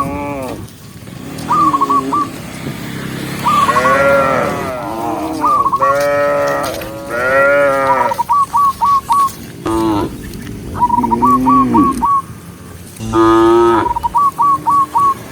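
Cattle mooing over and over, several long calls overlapping, some bending up and down in pitch. Between the moos come quick runs of three to five short, high chirping notes, repeated through the stretch.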